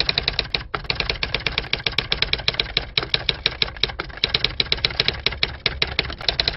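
Typewriter sound effect: a rapid, uneven clatter of keystroke clacks, several a second, with one short break under a second in.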